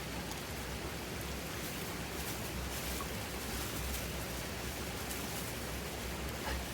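Wood campfire burning: a steady hiss with a few faint crackles, over a low rumble of wind on the microphone.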